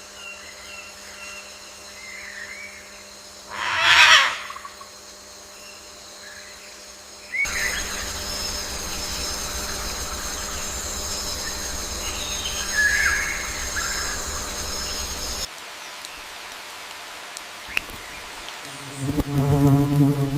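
Rainforest soundscape of scattered bird calls, with a loud shrill squawk about four seconds in. The background changes abruptly twice: a steady high whine over a low rumble through the middle, then a low pitched call near the end.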